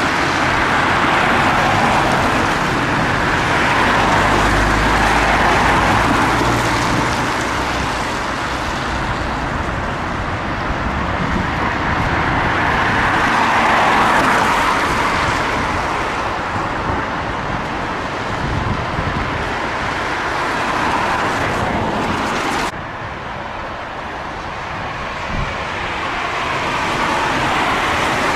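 Road traffic passing close by: tyre and engine noise of cars swelling and fading as each vehicle goes past. It drops suddenly about 23 seconds in.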